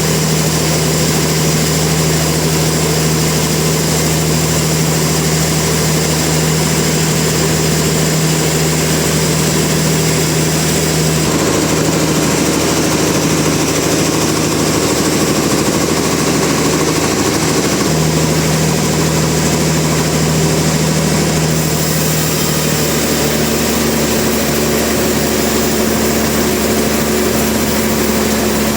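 Sawmill machinery engine running steadily, its low hum shifting in pitch a few times.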